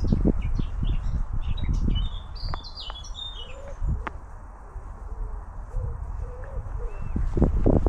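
Songbird chirping in quick short notes for a couple of seconds, over low thumps and rustling from movement and wind on the microphone, which are loudest at the start and near the end.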